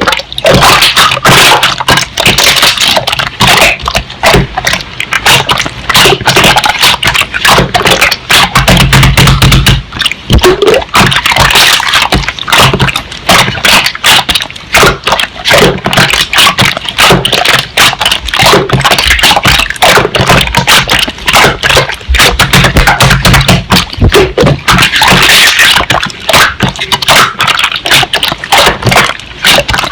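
Slime being squeezed and pressed by hand, making a dense, continuous run of wet clicking and popping.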